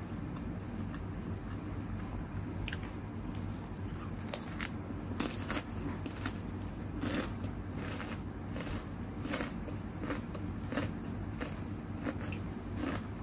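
Kerupuk cracker being bitten and chewed, a crisp crunch every half second or so, starting a few seconds in.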